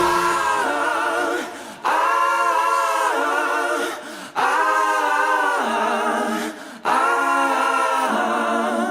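Background music: layered voices singing held chords without instruments, in four long phrases with a short break between each.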